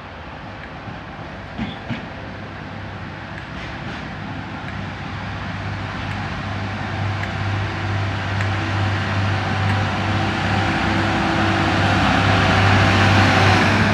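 Network Rail stone blower's diesel engine running with a steady low hum, the train noise slowly growing louder, with a couple of light clicks about two seconds in.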